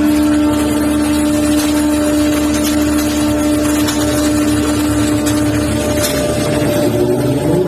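Steady hum of machinery aboard a fishing vessel, an engine or hydraulic hauling gear running at a constant pitch; near the end the pitch wavers and then climbs as the machine speeds up.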